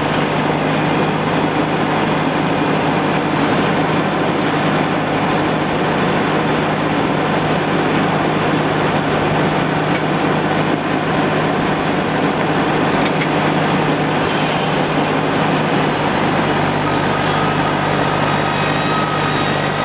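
Truck-mounted mobile circular-blade sawmill running steadily, a constant low hum under dense mechanical noise; a thin whine rises over the last few seconds.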